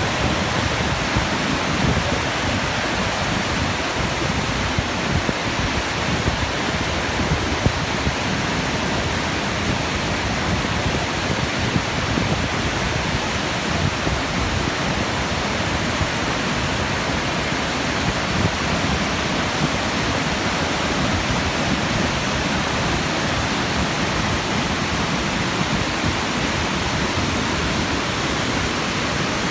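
Waterfall: water falling steadily onto rocks, a loud, even rush.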